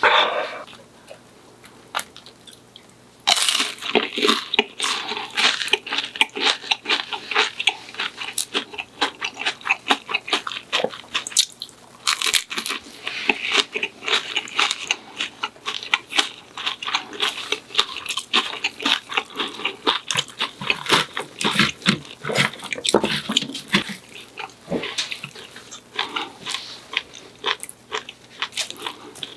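Close-up chewing and crunching of crisp pan-fried food, dense and continuous from about three seconds in.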